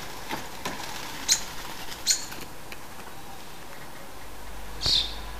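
Brief high bird calls: two short chirps in the first half and a louder call near the end, with a few faint clicks between them.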